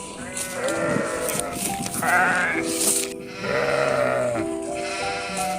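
Sheep bleating about four times, each call a quavering one lasting most of a second, over background music with held notes.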